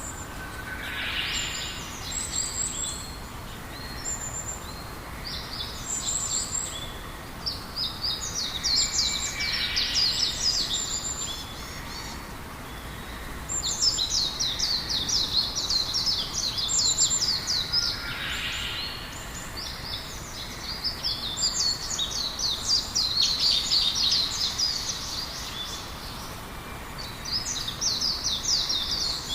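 Wild birds singing: repeated bursts of rapid, high twittering song, with a few lower falling whistles now and then, over a faint steady background hiss.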